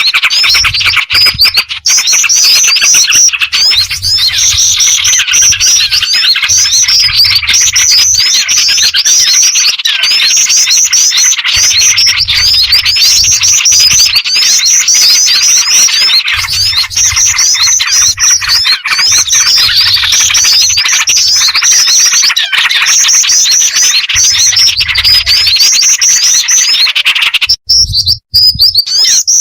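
Bird-lure recording of a black-winged flycatcher-shrike (jingjing batu) mixed with the calls of small birds and bulbuls. It is loud, dense, continuous high chirping, with a short twittering phrase repeating every second or two. It breaks off briefly near the end.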